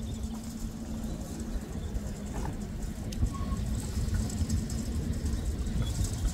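A motor vehicle engine idling, a steady hum over a low rumble, the hum dropping away about five and a half seconds in.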